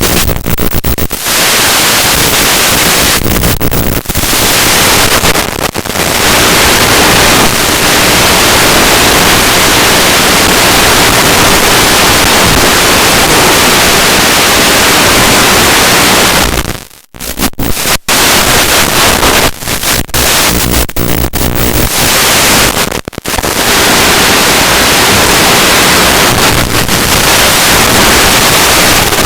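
Loud, steady static hiss from an analog FPV video receiver's audio channel, with several brief breaks and a deeper dropout a little past halfway.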